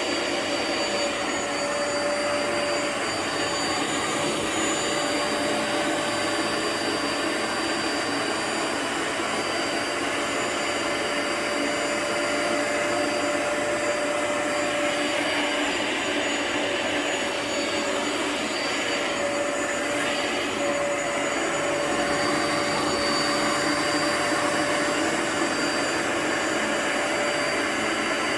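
Vacuum motor running steadily with a constant hum and a high whine over a rushing airflow, never stopping.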